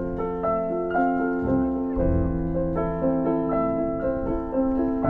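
Background piano music: a slow melody of held notes over sustained bass notes.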